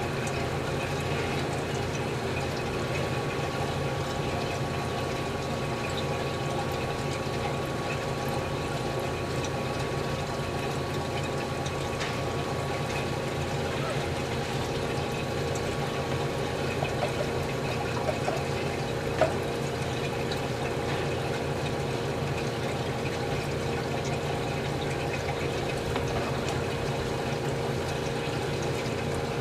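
GE CJ-1-C16 antique refrigerator running on test under heavy load: a steady hum from its compressor, with a steady liquid rushing sound. A few small ticks come a little past halfway.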